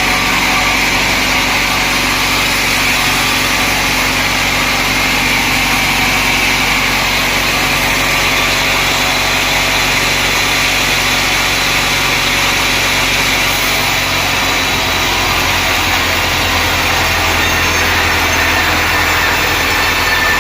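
Sawmill machinery running steadily with a loud, even machine noise. About two-thirds of the way through, its sound shifts and a deeper hum comes in.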